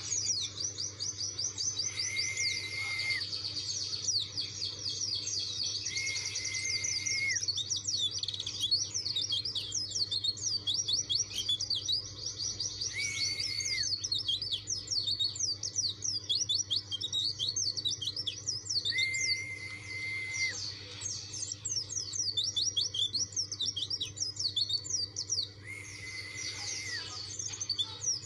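White-eye (pleci) singing a fast, unbroken twittering song, with a held lower whistle that cuts in every five to seven seconds.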